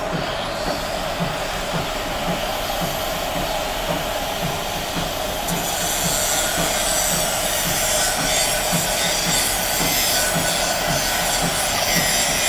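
A machine running steadily, with a regular low beat about three times a second. A high hiss grows louder about halfway through.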